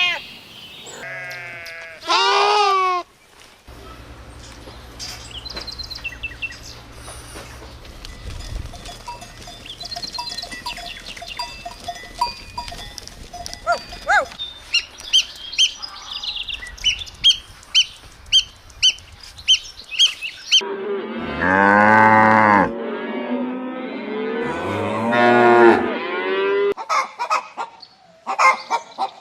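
Farm animals calling, the loudest being two long, low calls near the end: cattle mooing. Before them comes a run of short, high chirps.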